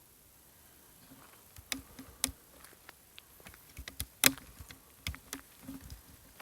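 Footsteps crunching over debris: a run of irregular sharp cracks and knocks starting about a second in.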